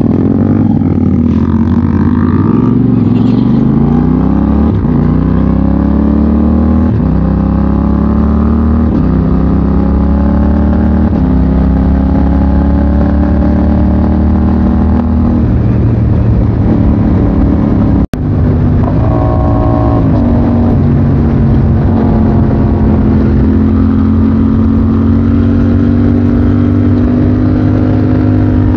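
Motorcycle engine accelerating up through the gears, its pitch climbing and then dropping back at each upshift. It then holds a steady pitch at cruising speed. The sound cuts out for an instant about 18 seconds in.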